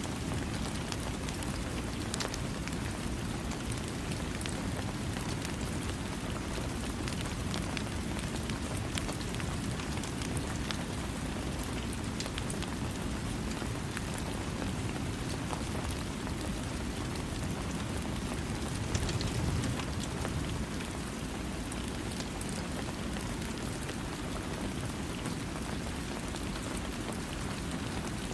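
Steady rain falling with no thunder: an even hiss with many separate drops ticking. It grows briefly louder about two-thirds of the way through.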